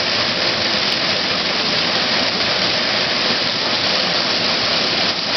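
Waterfall pouring and splashing in a steady rush.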